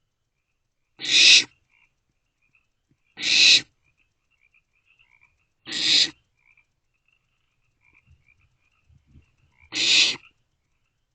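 Barn owlets giving harsh hissing begging calls, four of them about two to four seconds apart, each about half a second long. Faint high chittering and some low rustling fill the gaps.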